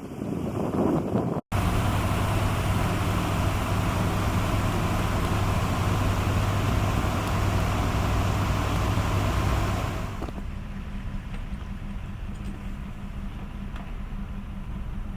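A motor vehicle's engine running steadily with a low hum and road noise, dropping to a quieter, steady hum about ten seconds in.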